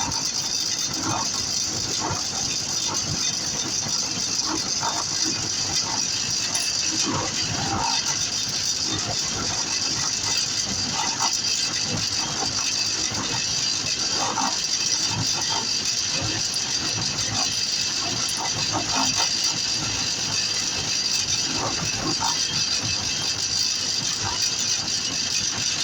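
Electric arc welding on steel, an angle iron being tack-welded to a dolly hand truck's frame: a steady hissing crackle with irregular small pops.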